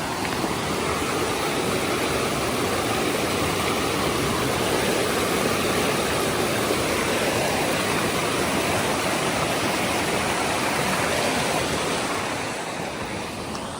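Steady rushing of a mountain stream, fading over the last couple of seconds.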